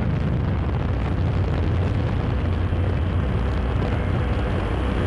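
Steady low rumble and hiss with a faint steady tone, unchanging throughout.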